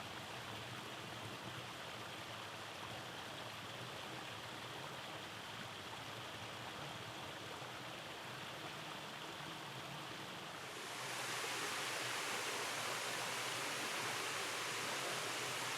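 Rainforest stream running over rocky cascades, a steady rush of water. About eleven seconds in it changes suddenly to a louder, hissier rush.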